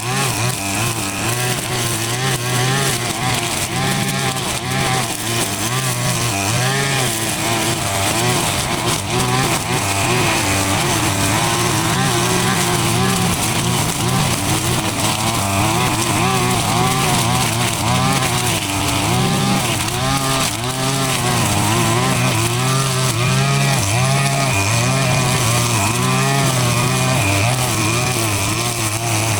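Small petrol engine running continuously, its pitch wavering up and down as the speed changes under load.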